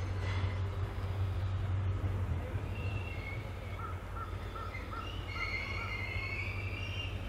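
EF210 electric freight locomotive rolling slowly past with a train of oil tank wagons, under a steady low hum. From about five seconds in, the wheels squeal with a high, wavering sound.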